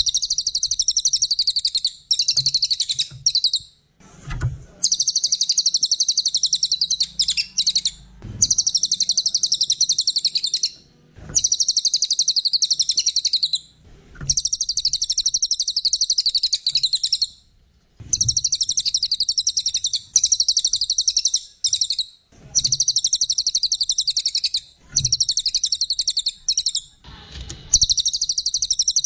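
A cililin singing a rapid, high, chattering twitter in bursts of about two to three seconds, separated by short pauses, with soft low thuds in some of the pauses.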